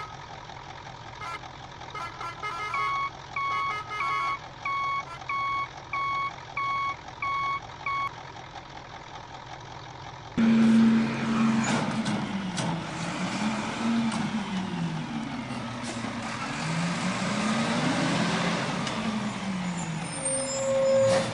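Truck sound effects: a steady engine hum with about eight evenly spaced reversing beeps, then, about halfway through, a louder stretch of slowly rising and falling tones.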